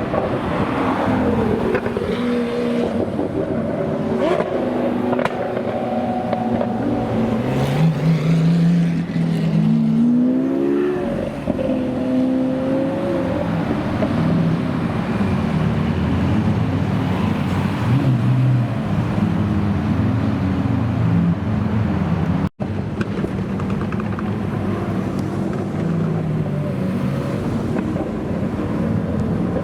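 Supercar engines running and revving loudly, one rising sharply in pitch as it accelerates about 8 to 10 seconds in. The sound cuts out for an instant about two-thirds of the way through.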